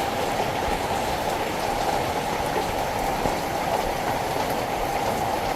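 Steady rushing water from a heavy rainstorm, an even noise with no breaks.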